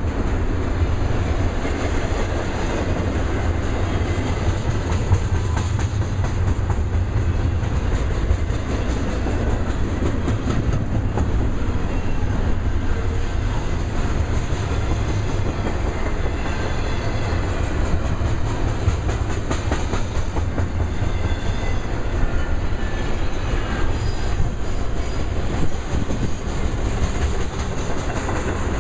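Double-stack intermodal container train rolling steadily past, its steel wheels running over the rails.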